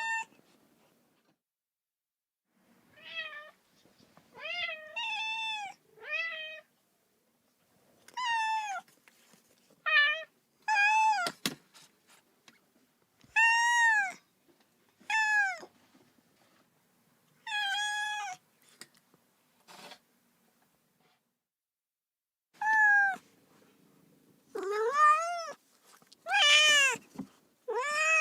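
A kitten meowing over and over: high-pitched cries that rise and fall, each under a second long, about a dozen of them with uneven pauses and a longer pause around the middle. These are the plaintive calls of a lone kitten crying for its mother.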